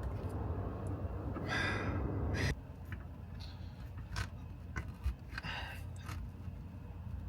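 A man gasping and breathing hard with effort while working a golf grip onto a club shaft, with light clicks and knocks. A rushing noise stops suddenly about two and a half seconds in.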